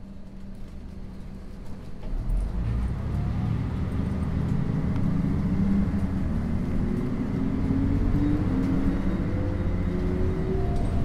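Adelaide O-Bahn guided bus: a steady low engine hum that grows louder about two seconds in as the bus pulls away, then engine and drive whines rising steadily in pitch as it accelerates.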